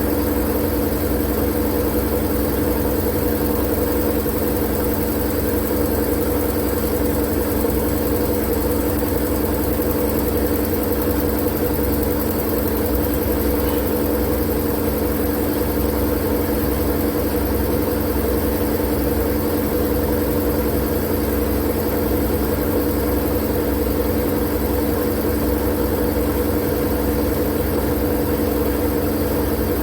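Steady, unchanging white noise: an even hiss over a low rumble, with a steady hum running beneath it.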